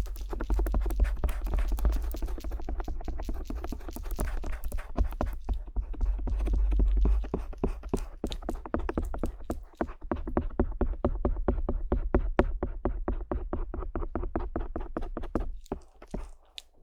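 Stainless steel ear pick scratching and tapping close up on the silicone ear of a binaural microphone, in dense quick strokes. A low handling rumble runs under the first half, then the strokes settle into a quick, regular rhythm and stop shortly before the end.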